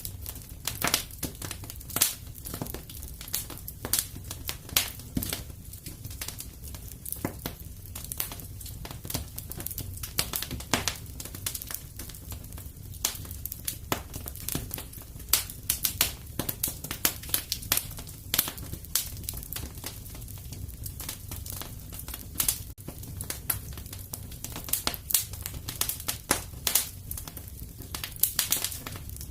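Wood fire in a fireplace crackling, with many irregular sharp pops and snaps over a low steady rumble.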